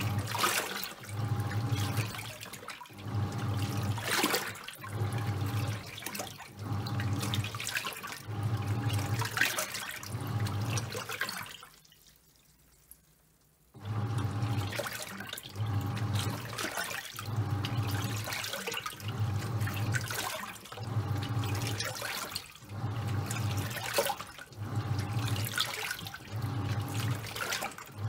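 Top-loading washing machine in its wash cycle with towels: the pulsator motor hums in short strokes about once a second, turning one way then the other, with the water and towels sloshing. About halfway through it pauses for about two seconds before starting up again.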